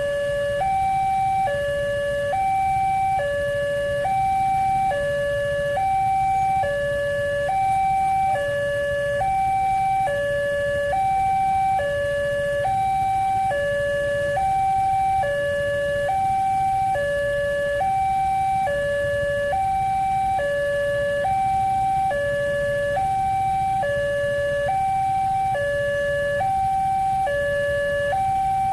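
Railway level-crossing warning alarm sounding an electronic two-tone, a higher and a lower note alternating about once a second, signalling that a train is approaching and the crossing gates are closing. A low rumble runs beneath it.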